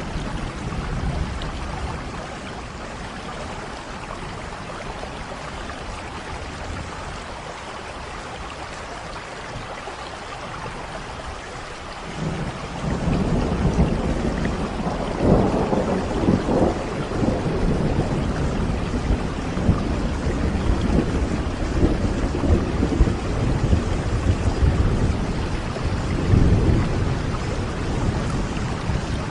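Steady rain falling, with a roll of thunder that rumbles in about twelve seconds in, grows loudest a few seconds later and swells again near the end.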